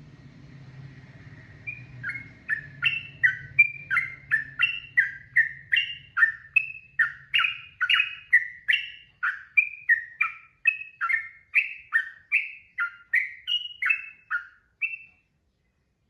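Sooty-headed bulbul (trucukan) singing a long rapid series of short clear notes, about two to three a second. The song starts about two seconds in and stops abruptly about a second before the end.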